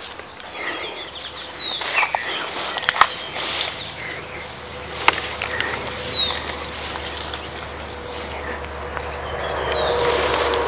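Bird calling in woodland, repeating a short high whistle that falls in pitch every few seconds, over a steady high insect buzz. A few sharp snaps of footsteps come between the calls.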